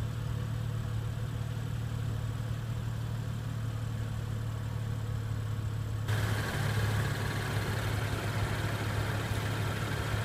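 BMW 435i's 3.0-litre turbocharged inline-six idling steadily, a low hum. About six seconds in, a hiss joins and the sound gets a little louder.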